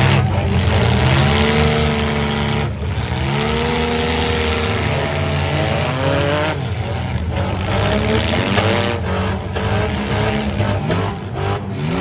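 Several compact-car demolition derby engines revving hard, their pitch rising and falling again and again as the cars push and ram one another.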